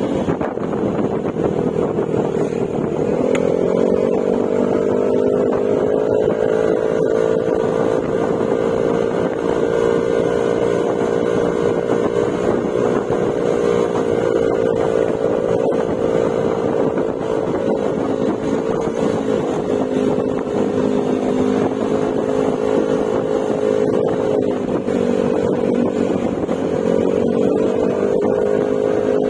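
Yamaha Mio Gravis scooter's single-cylinder engine running under way through an Akrapovic exhaust with a silencer insert. The engine note rises about three seconds in, holds steady, then dips slightly and climbs again near the end.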